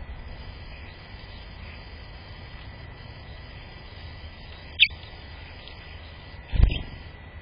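A single short, sharp bird chirp sliding downward about five seconds in, over faint scattered bird calls and a steady hiss. Near the end comes a louder low thump.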